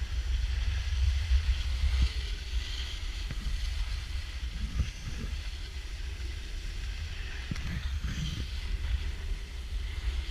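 Wind buffeting the microphone in a steady low rumble, with an even hiss above it.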